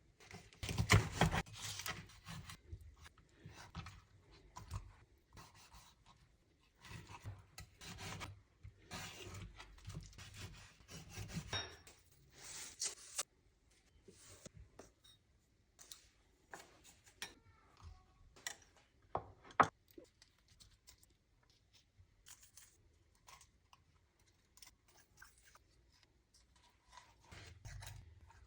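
Kitchen food-preparation handling noises: short, irregular rubbing and scraping strokes with rustles, and a single sharp knock about two-thirds of the way through.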